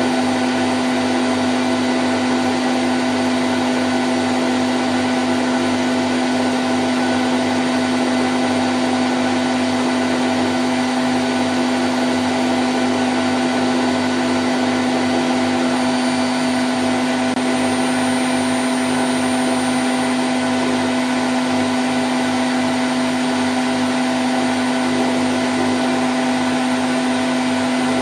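Candy Grand O' F106 front-loading washing machine in its spin cycle at 1000 rpm, running at a steady speed: a constant motor hum with a strong low tone over an even whoosh of the turning drum.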